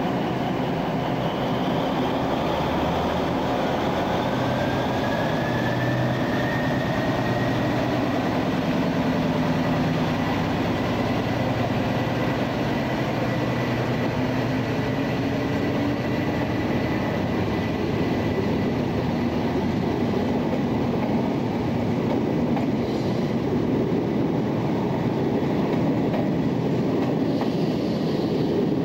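SNCB diesel shunting locomotive 8009 running while it moves a rake of double-deck car-carrier wagons, with the wagons rolling along the track. A whine rises a few seconds in and then holds steady.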